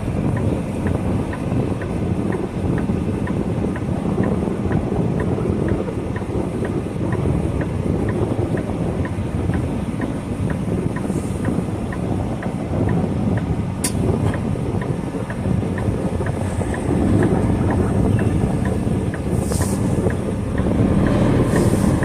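Semi-truck cab running on the road: steady engine and road rumble with wind noise, and a turn signal ticking about twice a second. One sharp click about 14 seconds in.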